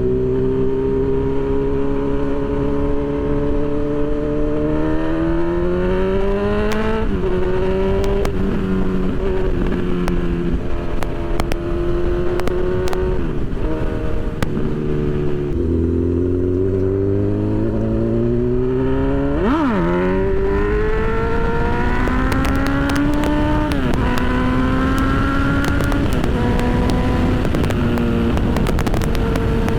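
Honda CB1000 inline-four motorcycle engine accelerating hard through the gears: the pitch climbs, drops at each shift and climbs again several times, with a quick dip and rebound partway through, then holds steadier near the end.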